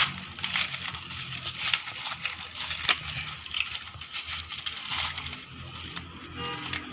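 Excavator engine running with a steady low hum, under irregular crunching and knocking as the car is handled.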